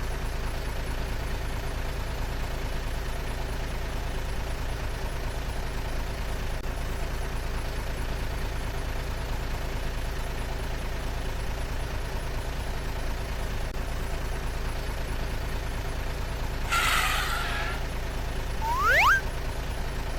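Steady vehicle engine rumble running evenly. About 17 seconds in comes a short hiss, and just before the end two quick rising whistle glides.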